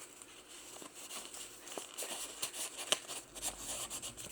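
Paper pages of a handmade journal rustling and crinkling as they are turned and handled: a run of irregular light crackles, with one sharper snap about three seconds in.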